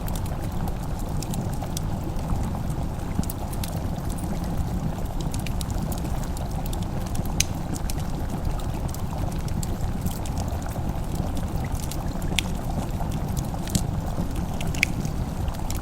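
Wood fire crackling in a fireplace: scattered sharp pops and snaps at irregular moments over a steady low rushing noise.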